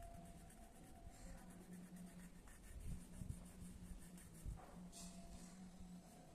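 Faint pencil strokes scratching on paper while sketching, over a steady low hum, with a few soft knocks partway through.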